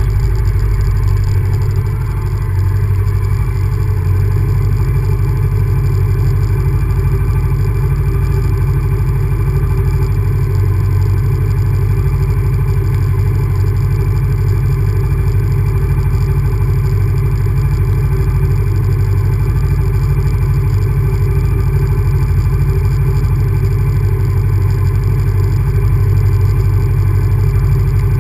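Honda VTR1000F's 90-degree V-twin engine running at a steady, even speed while the motorcycle is ridden, heard through a GoPro mounted on the bike. The engine eases off briefly about two seconds in, then holds steady again.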